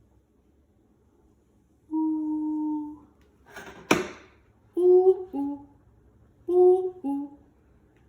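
A long, steady hummed 'ooh', a brief breathy rush, then a two-note falling cuckoo call, high note then low, heard twice.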